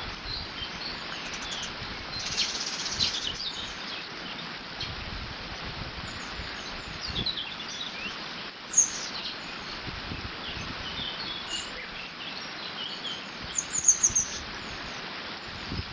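Water rushing steadily through a beaver dam, with small birds chirping and singing over it: one loud chirp about nine seconds in and a quick run of calls near fourteen seconds. Wind rumbles on the microphone now and then.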